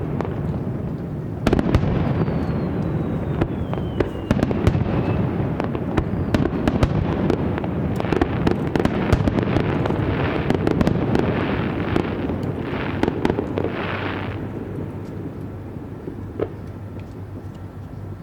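Aerial fireworks display: shells bursting with sharp bangs and dense crackling, and a whistle falling in pitch in the first few seconds. A run of hissing crackle bursts comes in the middle, then the display dies away near the end.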